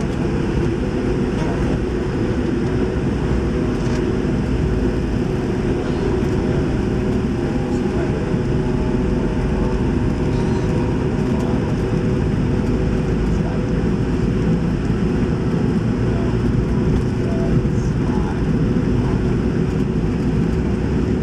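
Steady cabin noise of a McDonnell Douglas MD-80 airliner: the drone of its rear-mounted Pratt & Whitney JT8D engines and rushing air, a low, even rumble with a faint steady hum in it.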